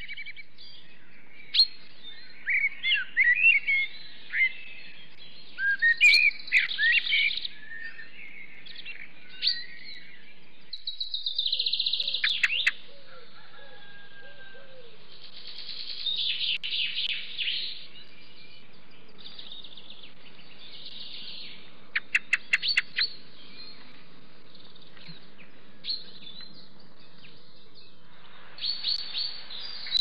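Several birds singing and calling: short chirps, whistled phrases and rapid trills in bursts, with pauses between, over a faint steady background.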